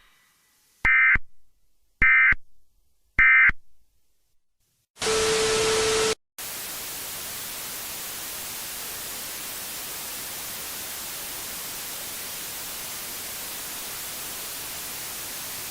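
Three short warbling data bursts about a second apart, the end-of-message code of an Emergency Alert System broadcast. After them comes a one-second burst of noise with a steady low tone, then about ten seconds of steady static hiss that stops suddenly near the end.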